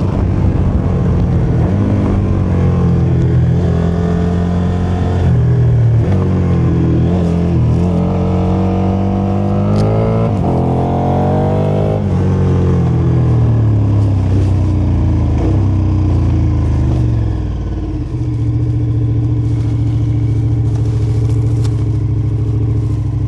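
KTM motorcycle engine under way, its pitch climbing and dropping several times as it accelerates and changes gear, then holding a steady note for the last few seconds.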